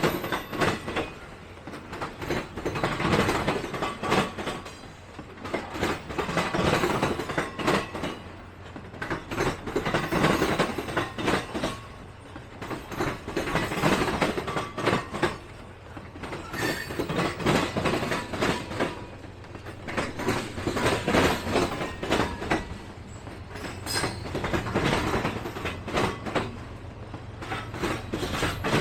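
Train cars rolling past, their wheels clacking over the rail joints in clusters that swell and fade about every three to four seconds, over a steady low hum.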